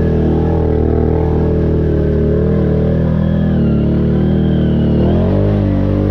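ATV engine running under way, its pitch shifting with the throttle and rising a little after five seconds in.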